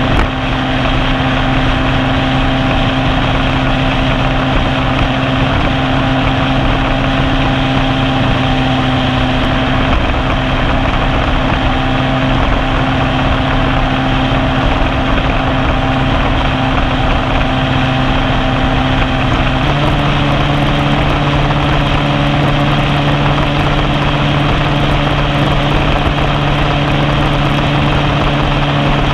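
150 cc single-cylinder motorcycle engine running hard at a steady high speed, about 8000 rpm, under a dense wash of wind noise. About two-thirds of the way through, the engine note steps up to a higher pitch as it climbs to about 8700 rpm.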